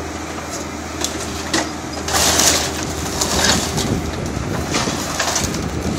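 Backhoe engine running steadily under the crunching and cracking of a house's timbers and debris being broken up by the bucket. The cracking grows louder and denser about two seconds in.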